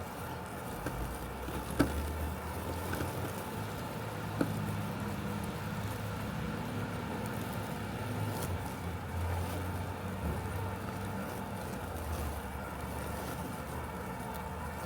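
Robotic lawn mower running with a steady low mechanical hum that swells and eases as it works. There are two brief sharp clicks, about two seconds in and again about four and a half seconds in.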